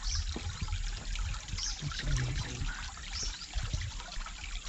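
Water trickling and splashing steadily, with a low rumble underneath.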